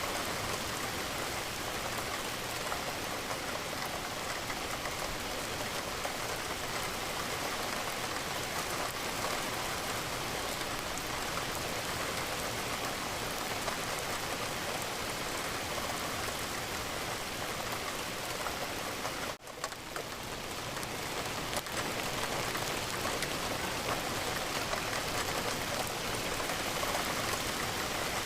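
Steady rain falling, an even hiss of raindrops. It cuts out for a split second about two-thirds of the way through, then fades back in.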